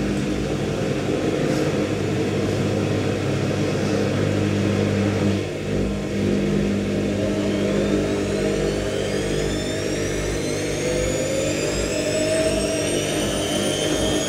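IKEA Renlig IWM60 washing machine's drum motor turning the load at distribution speed with a steady hum, then, from about 8 seconds in, speeding up into an intermediate spin with a whine that climbs steadily in pitch. The motor's bearings are rough.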